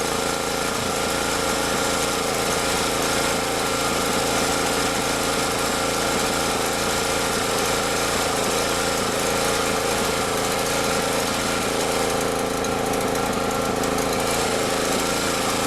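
Champion portable generator's engine running steadily, just restarted after sitting in storage and having its fuel lines cleaned; it sounds okay, maybe running a little rough.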